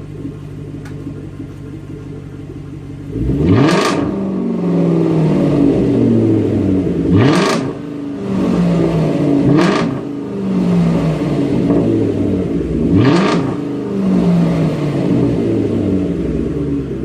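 2005 Lincoln LS engine idling, then revved four times, each rev climbing sharply and dropping back to idle, through an exhaust with an X pipe and an H pipe in place of the resonators, with no mufflers and no tips. The owner hears it as a little raspier than the X pipe alone, with a lot of low end.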